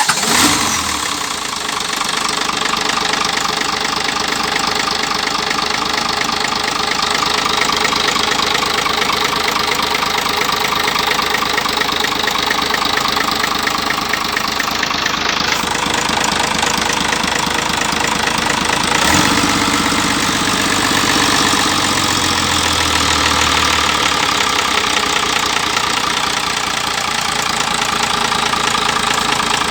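Isuzu 6HE1 inline-six diesel engine running on test, steady at idle with an even, rapid diesel knock. About 19 seconds in, a deeper low hum comes in for a few seconds.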